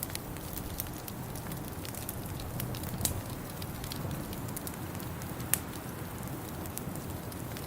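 Wood fire crackling in a fireplace: irregular sharp pops and snaps over a steady low rumble, with the loudest pops about three seconds in and again about five and a half seconds in.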